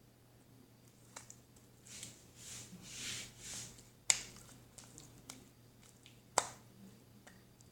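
Slime being squeezed and worked by hand: soft airy squishing, with two sharp clicking pops about four and six seconds in and a few smaller clicks.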